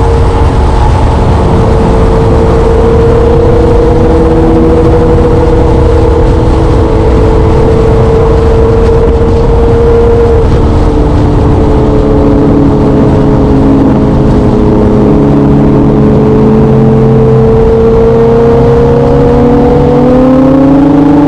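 Motorcycle engine running while riding at a fairly steady speed, its pitch sagging a little midway and rising near the end as it accelerates, over heavy wind noise on the microphone.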